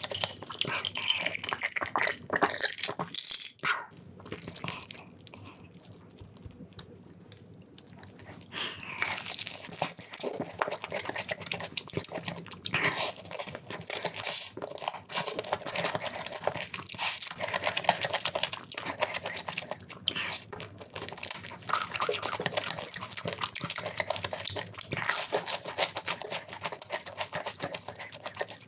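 Close-miked eating: crisp crunching and chewing of fried chicken, with many irregular crackles and wet mouth sounds. It eases off into a quieter stretch about four seconds in, then the crunching picks up again around eight seconds.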